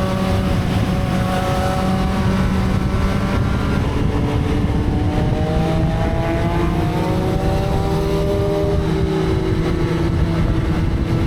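Motorcycle engine running steadily, its pitch drifting slowly up and down with small changes in engine speed.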